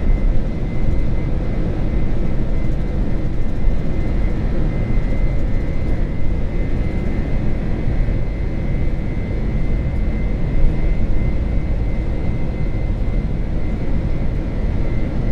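Boeing 747-400F accelerating down the runway at takeoff thrust, heard from inside the cockpit: a loud, steady rumble of engines and wheels with a faint steady high whine over it.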